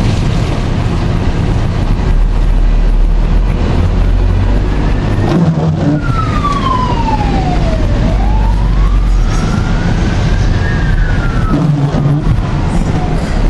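Storm wind buffeting the microphone with a heavy, steady rumble. Through the middle, a clear wailing tone falls, rises again and then falls away.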